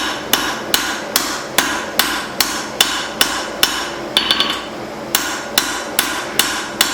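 Blacksmith's hand hammer striking hot leaf-spring steel on an anvil in a steady rhythm of about two and a half blows a second, each blow ringing, while cleaning up the forged cleaver blank. About four seconds in the rhythm breaks for a quick run of light taps, then the full blows resume.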